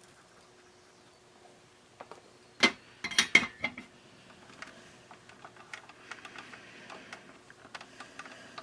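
Small tools and parts being handled on a workbench: a few sharp clicks and knocks about three seconds in, then lighter scattered ticking and clatter.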